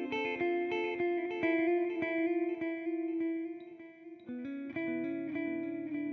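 Electric guitar, a Fender Jazzmaster, played clean through a TC Electronic Flashback delay pedal and a simulated Fender '65 Twin Reverb amp: picked notes with their echoes repeating behind them. A new chord with low notes comes in about four and a half seconds in and rings on.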